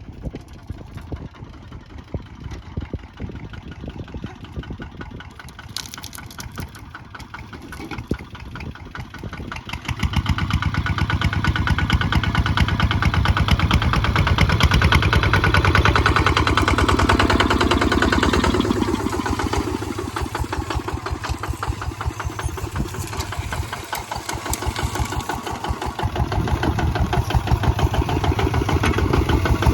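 Kubota ZT155 single-cylinder diesel engine running with a rapid, even knocking beat. It is quieter at first, then louder and faster from about ten seconds in. It eases off for a few seconds past the middle and picks up again near the end.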